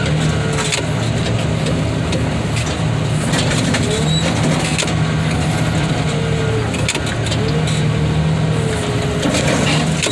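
Car crusher's engine running steadily, with a whining tone that rises and falls several times and scattered clicks and crunches of metal.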